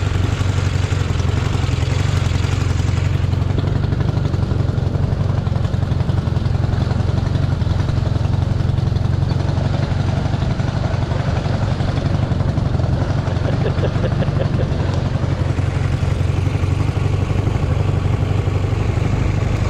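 Motorcycle engine running steadily under way off-road, a continuous low drone with rattle and clatter from the machine.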